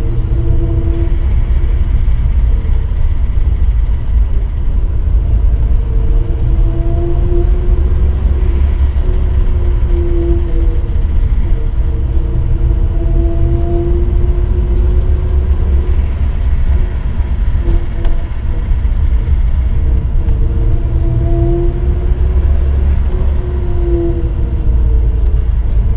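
ZMZ-402 inline-four petrol engine running while the vehicle is driven, over heavy low road rumble; its note climbs and drops several times with engine speed. The engine has a knock under way.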